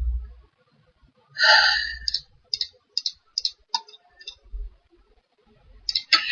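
Computer mouse clicking, about seven short clicks at uneven spacing, after a short breathy sigh about a second and a half in.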